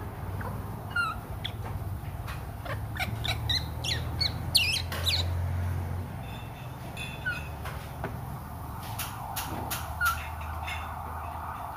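Birds chirping and calling in the background: scattered short chirps, with a quick run of rising and falling calls about halfway through. A steady low hum runs underneath, and a few sharp clicks come near the end.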